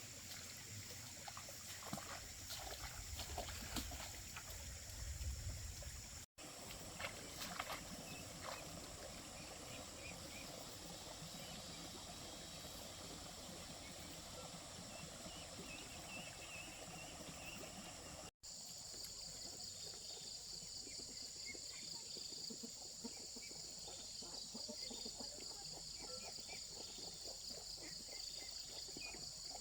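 Quiet rural outdoor ambience dominated by insects (crickets) chirping in a steady high-pitched drone, with faint knocks and rustles. The sound breaks off abruptly twice, and after the second break a second, lower insect tone joins in.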